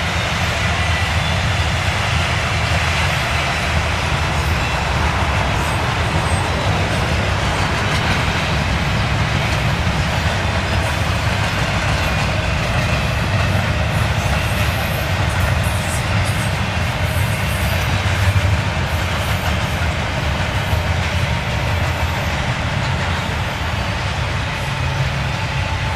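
Double-stack container train's loaded well cars rolling past, a steady rumble of steel wheels on rail.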